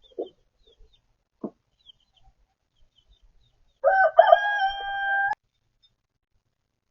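A rooster crows once about four seconds in: a call of about a second and a half that rises and then holds, cut off suddenly. A few soft clucks come before it.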